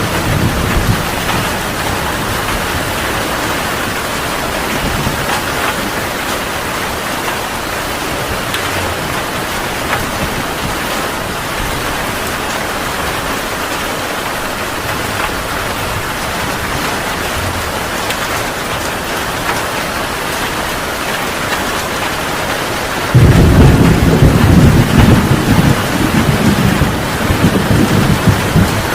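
Heavy rain falling steadily in a thunderstorm. About three-quarters of the way through, a loud rumble of thunder breaks in sharply and rolls on.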